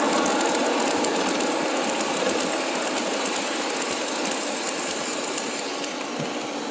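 Model electric trains running on the layout track: a steady whir of small motors and wheels on the rails, slowly getting quieter.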